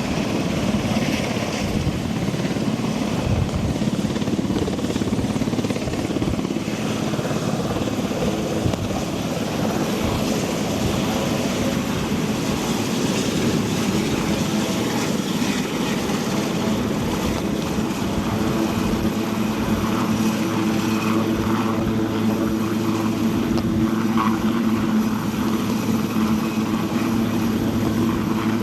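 Helicopter running, a continuous drone of rotor and turbine engines, with a steady hum that becomes more pronounced in the second half.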